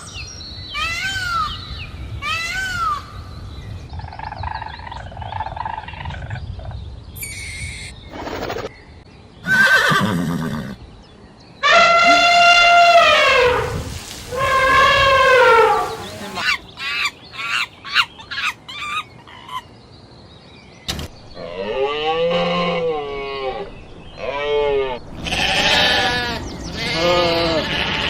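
Farm animals calling one after another: several different calls in turn, short rising-and-falling cries at first, two long drawn-out calls midway, and quick wavering calls near the end.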